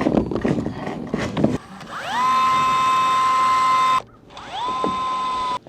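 Power drill spinning up to a steady high whine for about two seconds, stopping, then spinning up and running again for about a second, while pre-drilling holes in a clear corrugated PVC roof panel. Before the drill starts there is a second or so of clattering and knocking.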